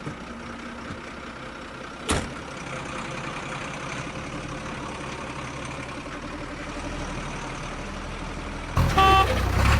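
Tractor engine running steadily, with a single click about two seconds in. Near the end it gets louder and a short horn-like tone sounds.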